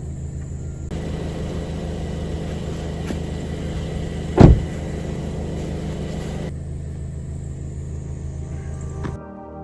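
A car's engine running with a steady low rumble, and one loud thump about four and a half seconds in.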